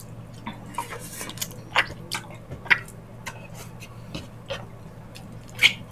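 Close-miked wet mouth sounds of chewing sticky, gelatinous ox-foot balbacua: irregular lip smacks and sticky chewing clicks, two of them louder, about three seconds in and near the end.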